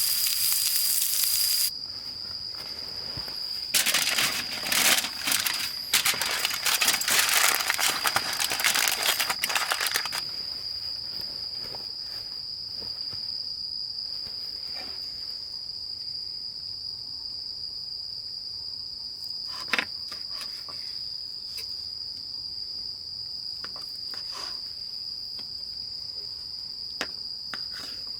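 Crickets trilling steadily on one high note throughout. Frying sizzle stops about two seconds in, and rustling, crinkling noises follow from about four to ten seconds in, with a few faint clicks later.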